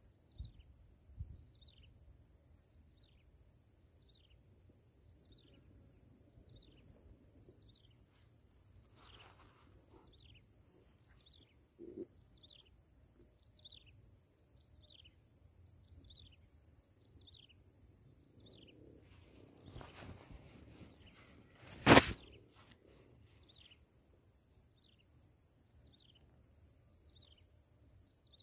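A bird repeating a short falling call about once a second over a steady high-pitched insect drone. A few soft knocks, and one sharp click about three-quarters of the way through.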